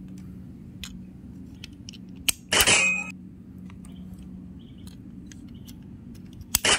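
AA batteries being pressed into a toy train's plastic battery holder against its coil-spring contacts: two short, loud clattering snaps about four seconds apart, with faint handling clicks between.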